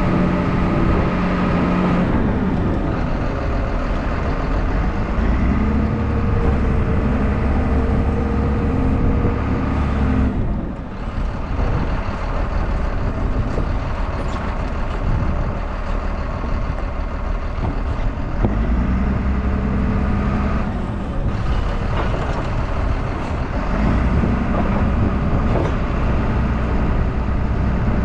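Diesel engine of a Caterpillar machine running hard while unloading logs, its pitch rising and falling as it revs up and eases off, with a single thump about two-thirds of the way through.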